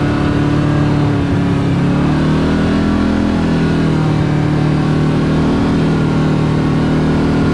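Kawasaki KRX 4 side-by-side's engine running steadily under way, with road and wind noise. The engine pitch shifts slightly about two seconds in, then holds.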